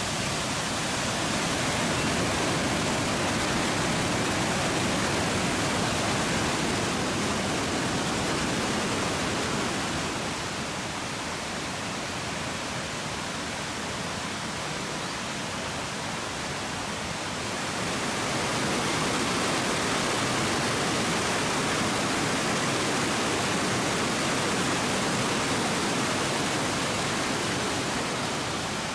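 Waterfall on the Krka River, water rushing in a steady, even noise that is softer for several seconds in the middle before returning to full strength.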